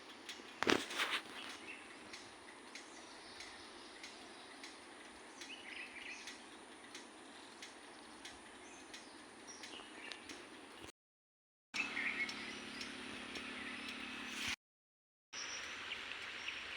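Birds chirping faintly over a steady outdoor hiss, with a brief rustle or knock about a second in. The sound cuts out completely twice, for under a second each time.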